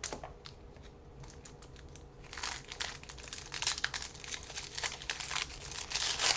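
Trading-card pack wrapper crinkling as it is handled and torn open: a few faint clicks at first, then steady crackling from about two seconds in.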